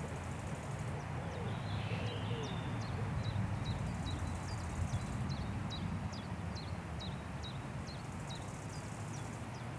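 Wind blowing through forest trees, a steady low rumble and rustle. Over it, a songbird repeats a short, high, falling call about twice a second from a couple of seconds in until near the end.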